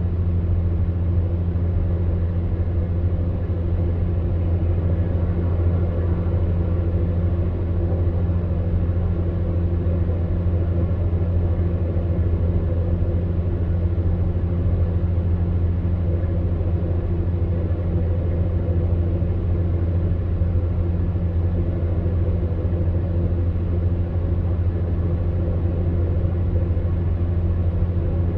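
Electric fan heater running steadily: a constant low hum with an even rush of blown air over it.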